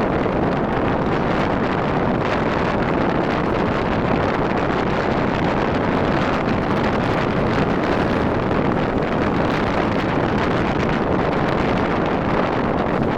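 Steady wind rush buffeting the microphone of a moving motorcycle, with road and engine noise blended into it.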